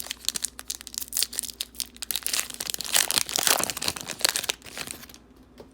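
Wrapper of a football trading-card pack being torn open and crinkled: a dense crackling and tearing that stops about five seconds in.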